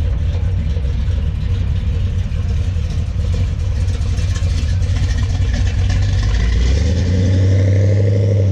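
Classic car's engine running with a deep exhaust note, swelling louder near the end.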